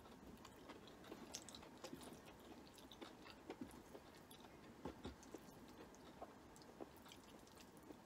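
Faint chewing of a mouthful of stir-fried egg noodles, with small scattered clicks and ticks throughout.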